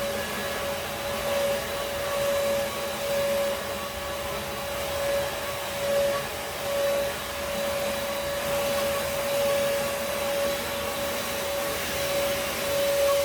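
Vacuum cleaner running steadily: a constant motor whine over a rushing hiss, swelling and easing slightly in loudness.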